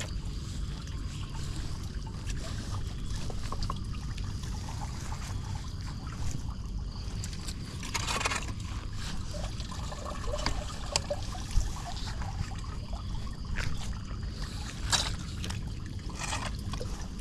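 Floodwater sloshing and trickling over a steady low rumble, with a few short, louder splashes.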